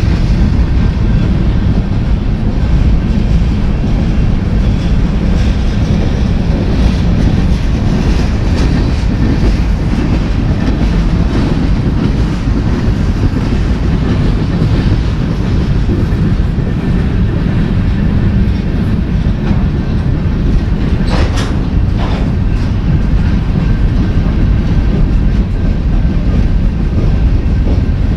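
Freight train cars rolling past at close range, a loud steady rumble with wheels clicking over the rail joints. About three-quarters of the way through come two brief sharp sounds, a second apart.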